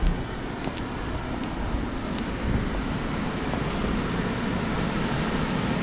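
Steady outdoor city-street noise: a low rumble of traffic with wind buffeting the microphone, and a few faint clicks scattered through it.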